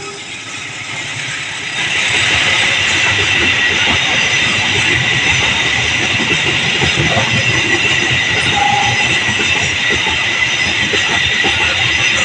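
Argo Bromo Anggrek express train passing close by: a continuous rush of steel wheels running on the rails, stepping up in loudness about two seconds in and then holding steady.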